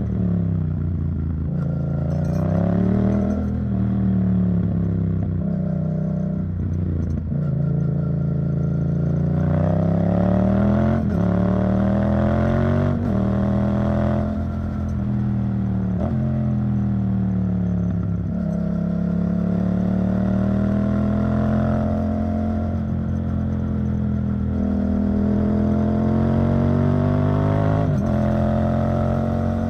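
Yamaha MT-07's 689 cc parallel-twin engine running through an Arrow Thunder titanium exhaust. Its pitch rises and falls with the throttle over a few seconds at a time, with a few sudden steps.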